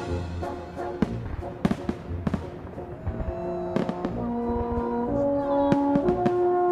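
Fireworks going off in a series of sharp bangs over orchestral music with sustained brass notes, which swell from about three seconds in.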